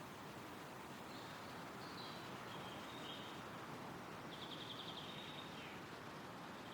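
Wind rustling through forest trees as a steady, even hiss, with small songbirds calling faintly and high several times, including a quick trill of repeated notes about four seconds in.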